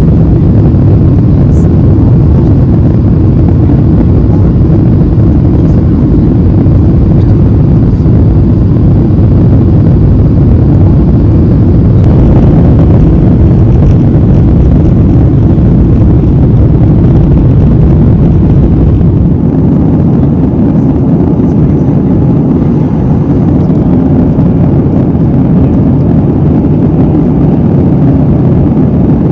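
Airliner cabin noise heard from a window seat: a steady, loud low rumble of jet engines and airflow, easing slightly about two-thirds of the way through.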